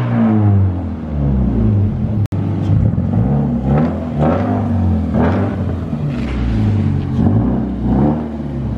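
Car engine running with its pitch rising and falling. After a brief dropout about two seconds in, the Scion FR-S's 2.0-litre flat-four idles low, blipped up in short revs about once a second as it creeps in at low speed.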